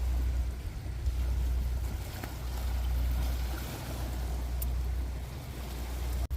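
Wind rumbling on the microphone: a steady low rumble that briefly cuts out near the end.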